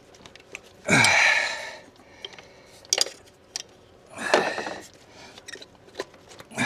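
A man's two strained exhales or grunts of effort while working loose a tight part, the first dropping in pitch. Short metallic tool clicks come between them.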